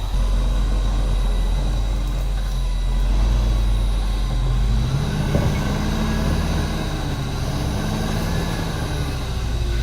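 Diesel engine of heavy earthmoving equipment running steadily, its engine note rising about five seconds in as the machine works under load, with a faint steady high whine.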